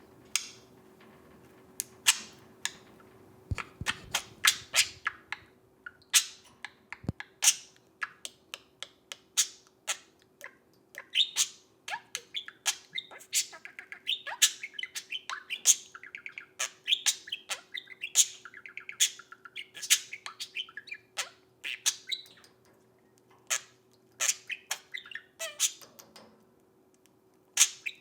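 Budgerigar (parakeet) chirping and chattering: a rapid run of short, high chirps with warbling stretches in the middle. Two soft low thuds come a few seconds in, over a faint steady hum.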